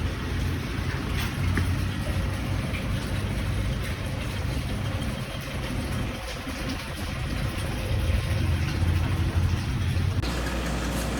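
A vehicle engine running steadily, with a low hum. The sound changes abruptly about ten seconds in.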